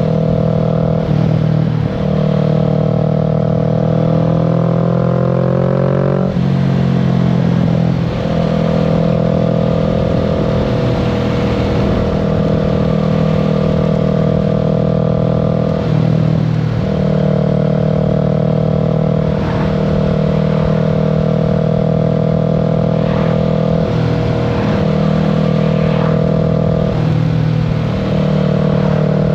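Kawasaki Z650's parallel-twin engine under way, climbing in pitch as it accelerates for a few seconds early on, then holding a steady cruising note. The note breaks and drops briefly several times, at gear changes or throttle lifts.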